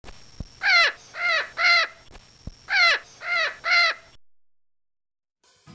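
Bird calls in two runs of three, each call loud and falling in pitch.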